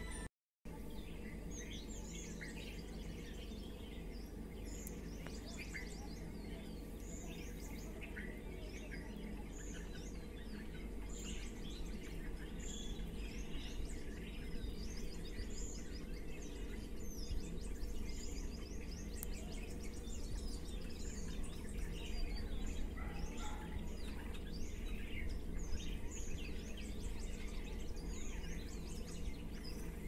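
Several small birds chirping outdoors: many short, high calls repeated throughout, busier in the second half, over a steady low background rumble. The sound cuts out for a moment just after the start.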